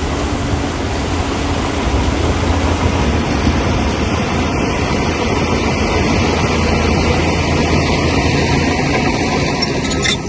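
Crawler bulldozer's diesel engine running with its steel tracks clattering, a loud steady mechanical din.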